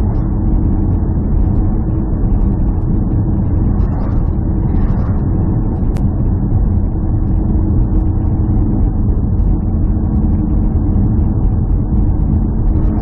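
A steady, loud, low engine drone, like a running vehicle, with one sharp click about six seconds in.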